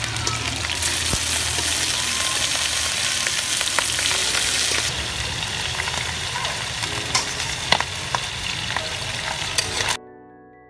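Pork hock pieces sizzling hard in hot oil in a wok, stirred, with occasional sharp clicks. The frying cuts off suddenly about ten seconds in, leaving soft mallet-instrument music.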